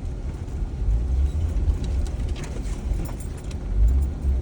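Jeep driving slowly over a rough dirt trail: an uneven low rumble of engine and tyres, with a few light clunks and rattles as it rocks through the ruts.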